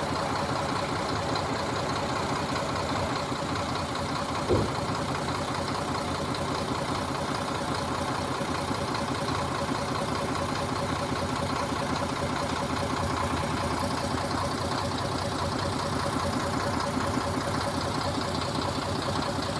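HOWO dump truck's diesel engine running steadily at a low, even speed, with a single short knock about four and a half seconds in.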